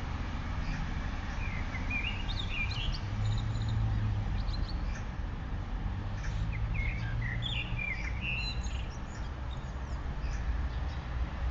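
Songbirds chirping outdoors in two short spells of quick, high chirps, over a steady low background rumble.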